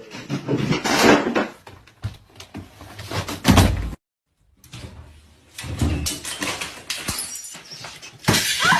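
Household objects knocked over and falling: a run of clattering knocks and thuds with a heavy thud about three and a half seconds in, then after a brief silence more clattering and knocking.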